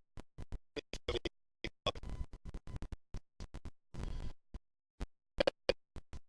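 Choppy, broken-up recording audio: short fragments of sound cut off again and again by abrupt dropouts to dead silence, a few times a second.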